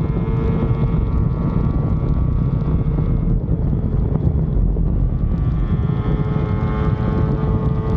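Yamaha RD250 two-stroke twin running under way, its engine note steady over heavy wind buffeting on the microphone. The note eases a little around the middle and firms up again towards the end.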